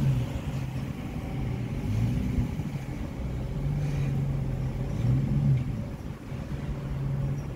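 A motor vehicle engine running with a steady low hum that briefly swells up and down in pitch three times.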